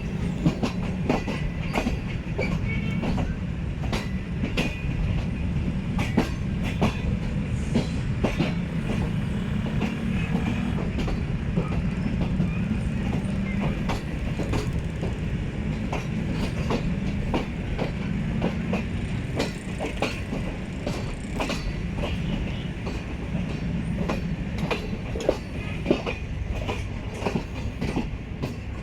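A passenger train rolling along the track, with a steady low rumble and irregular clattering clicks from the wheels over the rail joints.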